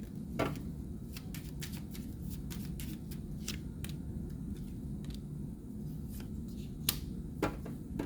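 Tarot cards being handled and shuffled: scattered light clicks and snaps at an uneven pace, with a few louder ones about half a second in and near the end, over a steady low hum.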